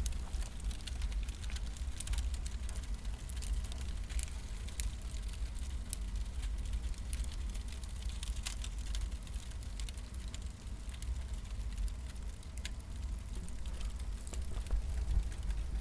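Wood fire crackling, with scattered sharp pops, over a steady low rumble.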